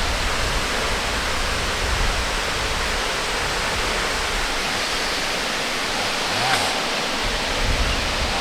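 Waterfall rushing steadily, a continuous hiss of falling water.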